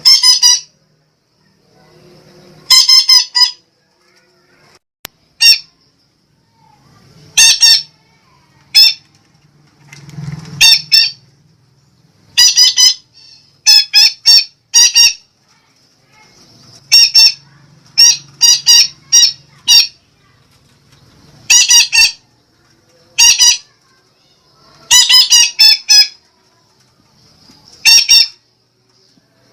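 Sumatran betet parakeet giving loud, harsh squawking calls, short and repeated in pairs and triplets with brief pauses between groups.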